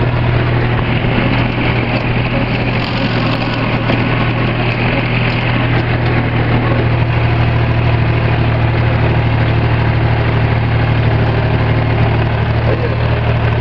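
Farm tractor engine running at a steady speed as the tractor drives along, a continuous low drone that does not change.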